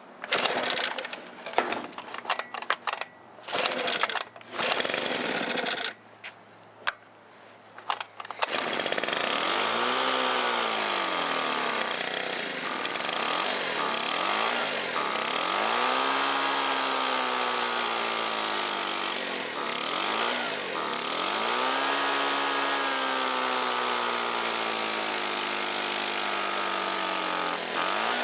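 Shindaiwa EB254 Hybrid4 four-stroke blower engine being pull-started: several short bursts and sputters, then about eight seconds in it catches and keeps running. Its speed rises and falls over and over without reaching full throttle, which the owner puts down to stiff diaphragm and pump parts in the carburetor of this long-unused machine.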